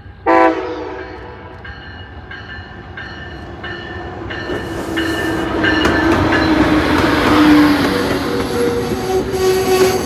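A short, loud locomotive horn blast just after the start, then a railroad crossing bell dinging about one and a half times a second. Under the bell, a train's rumble grows louder as it passes, with steel wheels squealing on the rails.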